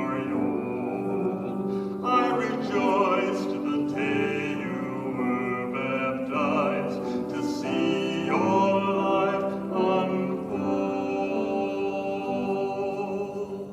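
A sacred song sung in a trained style with vibrato over accompaniment, long held notes; the music ends near the close.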